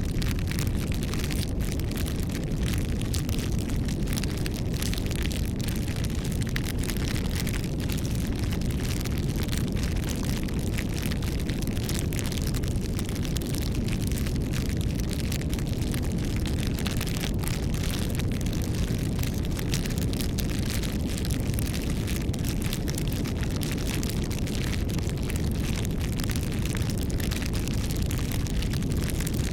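Wood bonfire burning, with a steady low rumble and a constant scatter of small crackles.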